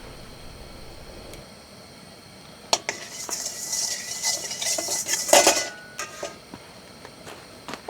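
Metal utensils scraping and clinking against cookware: a sharp clink about three seconds in, then a couple of seconds of scraping with a faint metallic ring, a loud clank near the end of it, and a few lighter clinks after.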